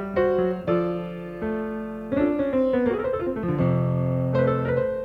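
Background piano music, chords and melody notes struck at a moderate pace.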